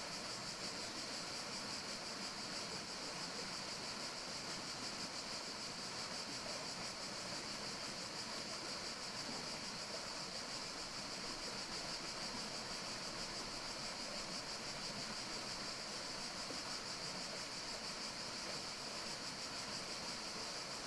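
Steady forest ambience: an even, unbroken hiss with a bright high band and no distinct bird calls or knocks.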